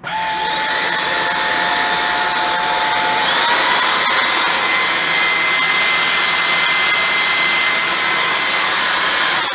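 Holife cordless stick vacuum's brushless motor running with a high whine and airflow hiss. It steps up to a higher pitch about three seconds in, then winds down near the end as it is switched off.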